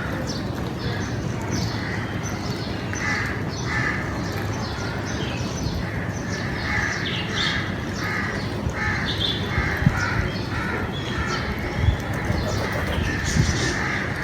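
Several crows cawing over and over in short calls, overlapping with one another, over a steady low background rumble. A few dull knocks sound in the second half.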